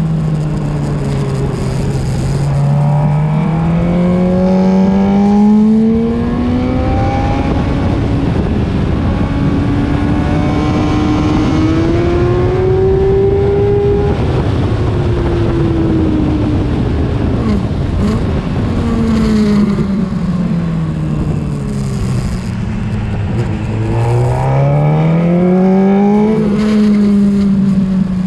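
Honda CBR600RR inline-four sports bike heard onboard at racing speed, with wind rush throughout. The engine note climbs over the first few seconds and again to about halfway, falls away after that, and dips low and climbs again near the end as the bike accelerates out of corners and slows into them.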